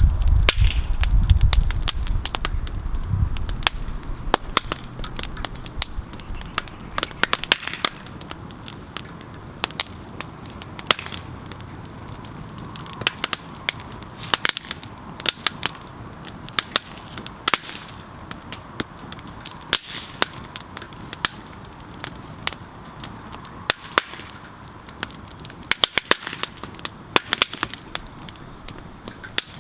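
Campfire crackling: irregular sharp pops and snaps of burning wood over a soft hiss, with a low rumble during the first few seconds.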